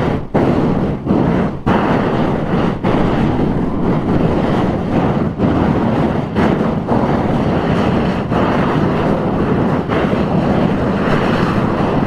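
Loud, steady rushing noise with brief irregular dips, like wind buffeting the microphone.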